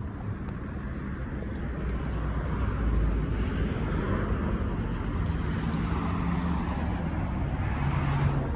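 A vehicle engine running steadily, with a low, even drone.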